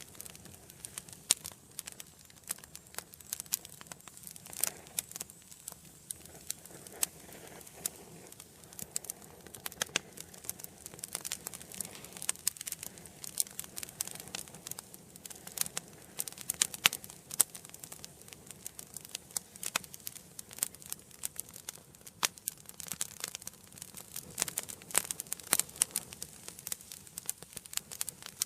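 Wood fire burning in a fireplace: a continuous soft hiss with many sharp, irregular crackles and pops as the burning logs split and snap.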